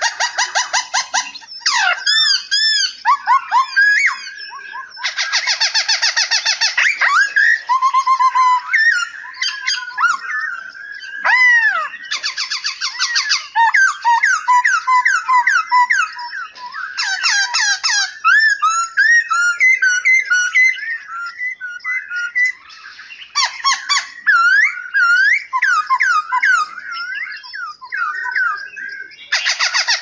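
Several caged songbirds singing and calling at once: clear whistled phrases and quick runs of chirps, cut across every few seconds by a harsh, buzzy call lasting a second or two.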